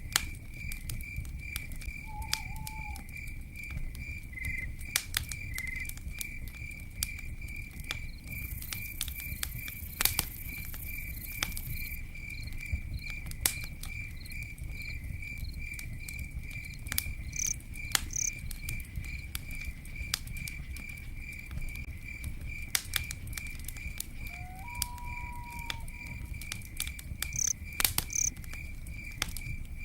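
Campfire crackling with scattered sharp pops over a steady low rumble. A cricket chirps steadily in rapid even pulses throughout, and a few brief higher calls from other night animals come and go.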